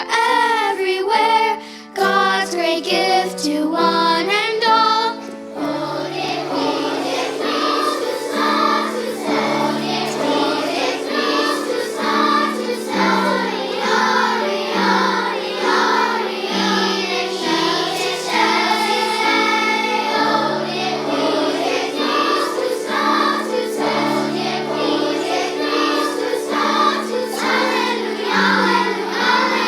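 A children's choir singing with musical accompaniment; about five seconds in, the music changes to a fuller, steadier texture with repeated notes over a low line.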